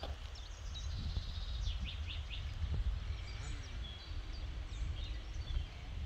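Songbirds chirping and trilling in short phrases, with a quick trill a second in and a run of repeated notes about two seconds in, over a steady low rumble.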